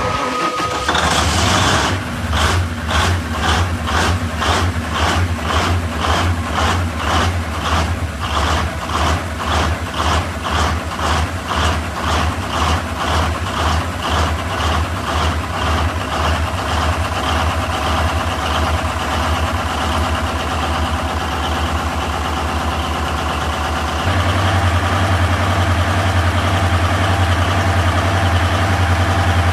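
Large Cummins diesel engine starting: it catches about a second in, then runs with an even pulse about twice a second. About five seconds before the end it steps up in speed and gets louder, running steadily.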